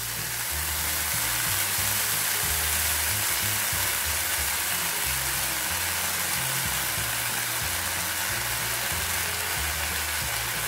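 Leftover-rice batter sizzling steadily as it fries in a little oil in a non-stick pan while a spatula spreads it, with background music's low bass notes underneath.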